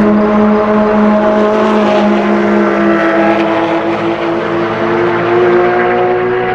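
Sports car engines running hard on a race track, several engine notes at once, their pitch holding and slowly climbing as they accelerate, over a steady lower drone.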